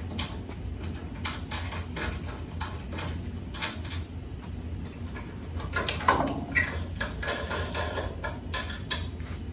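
Scattered clicks, scrapes and clinks of hand tools and small metal hardware being handled while parts are taken off a pickup truck bed, with a brief squeak about six seconds in. A steady low hum runs underneath.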